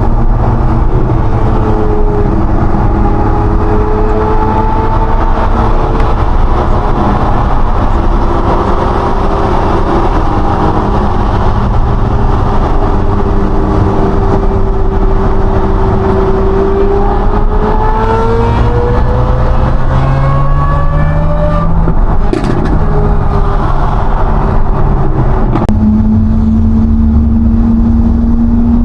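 Lamborghini Aventador SVJ's V12 engine and exhaust under way, the note climbing gradually as it accelerates through the middle, then settling into a steady drone near the end.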